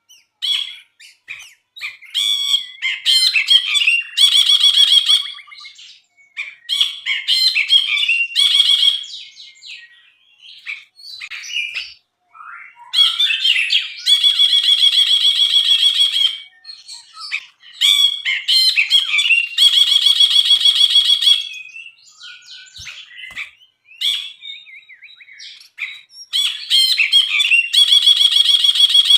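Brinji, a bulbul, singing loudly in bouts of chattering phrases broken by short pauses, with several rapid, buzzy rattling trills about two seconds long each.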